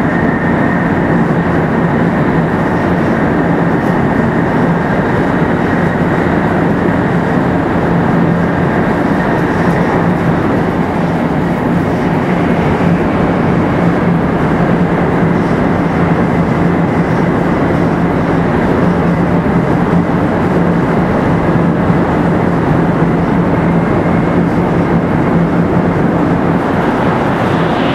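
500 series Shinkansen car 527-7707 running at a steady high speed, heard from inside the car: continuous rolling and wind noise with a steady low hum, its Toshiba GTO inverter drive quiet and holding an even pitch.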